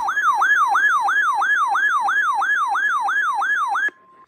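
Weather radio alert siren: a loud electronic yelp that sweeps up and down about four times a second, announcing a high wind warning. It cuts off sharply near the end, leaving a faint steady tone.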